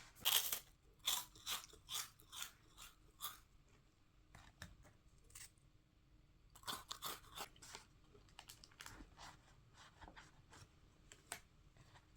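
Short crisp crunches and crinkles in uneven bursts from packaged snacks and their plastic wrappers being handled: a loud one at the start, a quick run over the next few seconds, another cluster around the middle and a last one near the end.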